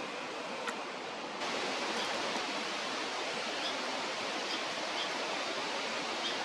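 A steady rushing noise outdoors, which gets louder about a second and a half in, with a few faint, short high bird chirps.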